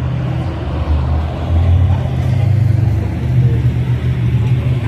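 A large vehicle's engine running with a steady low rumble, growing a little louder about a second in.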